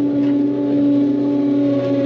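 Skid steer's engine and hydraulics running steadily, heard from inside the cab as a constant droning whine.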